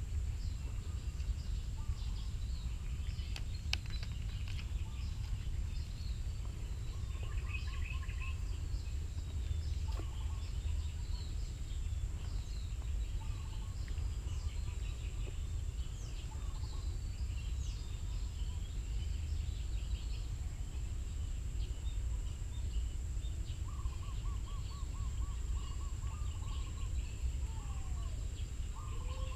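Outdoor ambience: a steady low rumble with birds calling and chirping on and off throughout, over a steady high-pitched whine.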